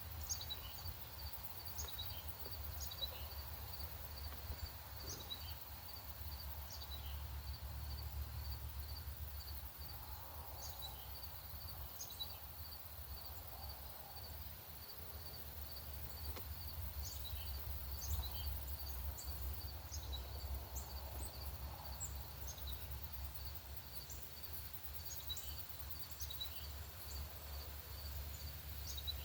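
Songbirds giving scattered short, high chip notes, over a steady high call pulsing a few times a second on one pitch and a low background rumble.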